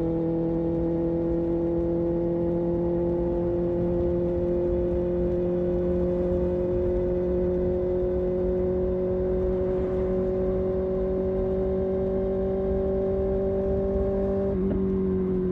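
Kawasaki Ninja ZX-6R inline-four engine and exhaust running at a steady cruise, the note creeping slowly higher. About a second before the end it briefly breaks and settles a little lower.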